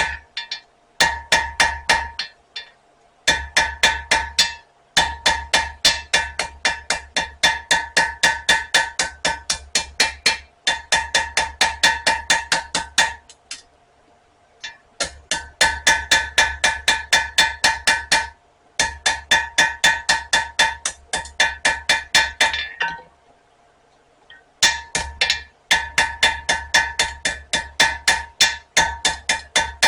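Hand hammer striking hot spring steel on an anvil in fast runs of blows, about four to five a second, each with a bright metallic ring. The runs stop and restart several times with short pauses, as the piece is turned or repositioned.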